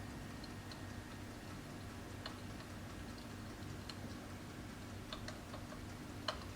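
Irregular crackles and pops like burning logs from a Feuerbach digital electric fireplace, over a steady low hum; one pop near the end stands out.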